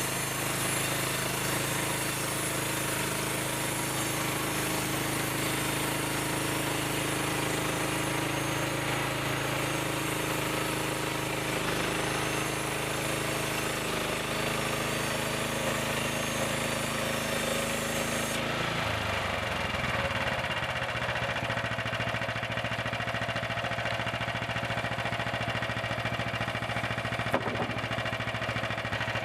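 Small gasoline engine of a portable bandsaw sawmill running steadily. About two-thirds through, the engine note changes abruptly, and a single sharp click sounds near the end.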